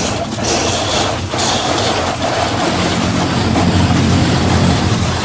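Automatic car wash machinery working over the car, heard from inside the cabin: a steady rushing noise with a low hum that grows louder about three seconds in. It is so loud.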